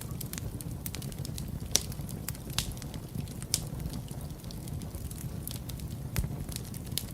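Wood fire burning in a fireplace: a steady low rumble with frequent sharp crackles and pops, two of them louder, about two and three and a half seconds in.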